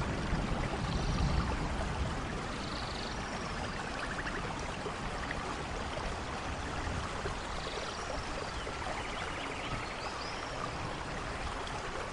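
Steady rain falling in a forest, with a low thunder rumble dying away in the first second or two. A few faint short high chirps from animals sound now and then over the rain.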